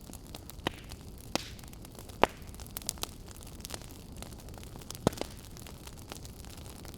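Wood fire burning in a fireplace: a steady low hiss with sharp, irregular crackles and pops, the loudest about two seconds in and again about five seconds in.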